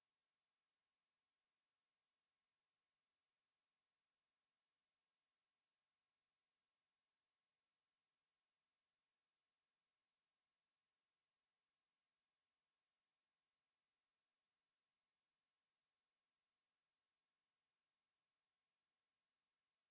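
A steady, high-pitched pure sine-wave test tone at 10693 Hz, held at one constant pitch and level.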